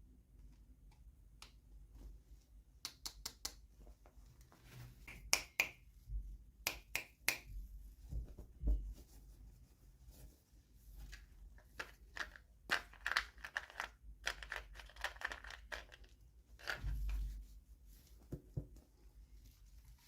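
Hands unboxing small toys: plastic packaging crinkling and tearing, with many sharp clicks and a few soft knocks as pieces are handled and set down. A denser stretch of rustling and tearing comes about two-thirds of the way through.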